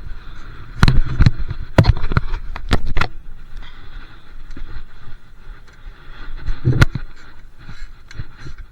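A bike jolting and rattling over bumps while being ridden: sharp knocks come in a cluster during the first three seconds and once more near seven seconds, over a steady rushing noise.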